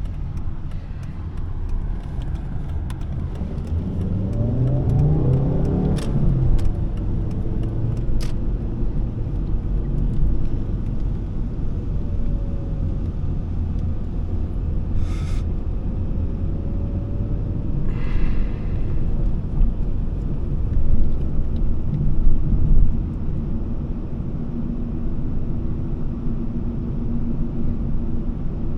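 Volvo S40 2.4i's five-cylinder petrol engine and tyre rumble while driving in town; about four seconds in the engine rises in pitch as the car accelerates, then falls away about six seconds in. A few sharp clicks follow.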